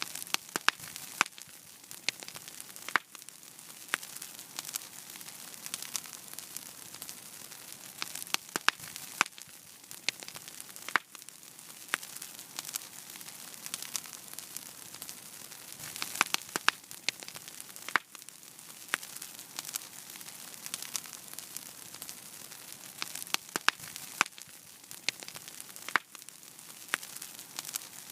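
Wood fire burning in a fireplace: a steady hiss with frequent sharp, irregular crackles and pops.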